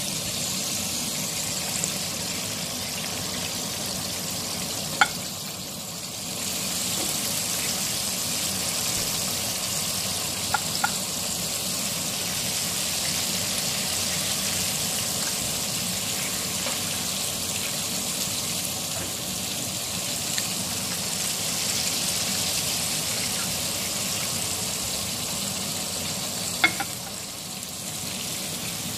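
Breaded chicken drumsticks deep-frying in a pan of hot oil: a steady sizzle, with a few sharp clicks about five seconds in, twice near the middle, and once near the end.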